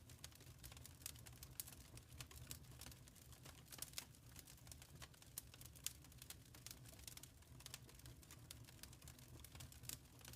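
Wood fire crackling in a fireplace: a steady stream of irregular small snaps and pops, a few louder than the rest, over a low, even rumble of the burning.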